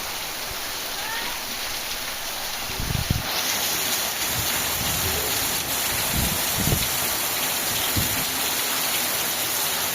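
Heavy rain pouring down in strong wind, a steady hiss that grows louder about three seconds in, with a few short low rumbles scattered through it.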